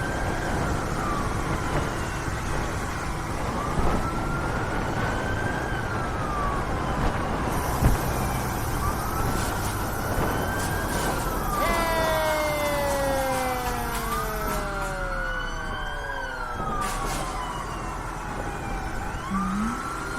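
Emergency vehicle sirens wailing, their pitch slowly rising and falling every few seconds, with several sirens overlapping out of step from about midway. A fire truck's engine and road noise run underneath.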